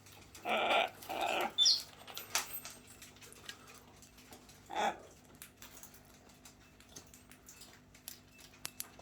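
Pet parrots calling: two harsh squawks in quick succession about half a second in, a short high chirp just after, and another squawk about five seconds in. Light clicks and scratches of the birds moving about come in between.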